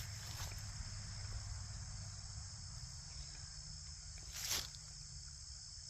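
Steady high-pitched chorus of insects, with one short brushing noise about four and a half seconds in.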